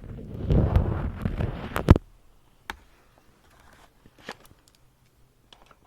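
Close-miked rustling and crackling for about two seconds, ending in a sharp click; then near silence broken by a few faint ticks.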